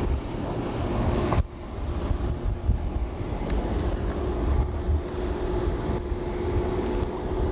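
Motorboat engine running, with wind buffeting the microphone. About a second and a half in, the sound breaks off abruptly and comes back, and a steady hum then runs under the rumble.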